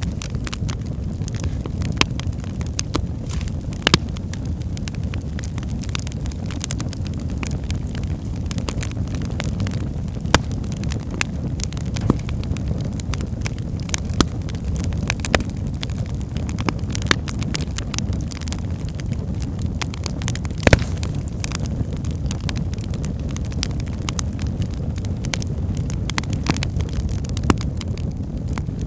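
Wood fire burning in a fireplace: a steady low rumble of flame with logs crackling in irregular sharp snaps, and a few louder pops now and then.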